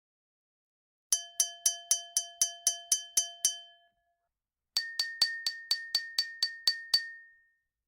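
Glass bottle struck with a metal spoon in the Trinidad rhythm-section style, in two runs of about ten even strikes, about four a second. Each run leaves a clear ringing tone, and the second run rings higher than the first.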